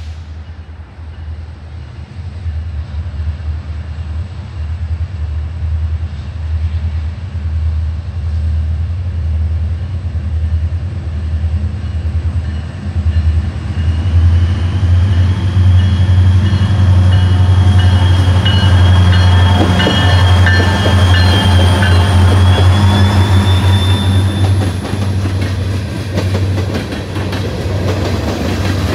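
Indiana Harbor Belt freight train: the diesel locomotives' engines running with a deep steady hum that grows louder as they approach and pass about halfway through. The freight cars then roll by with wheel clatter.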